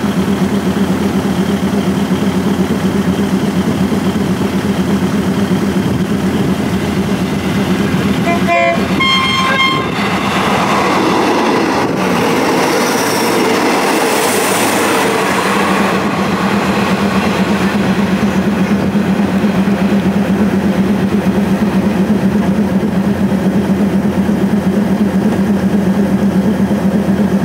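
Diesel train horn giving a few short toots in greeting about eight seconds in, then the rush and rumble of a passenger train passing close by for several seconds. A steady diesel engine idles underneath, before and after the passing.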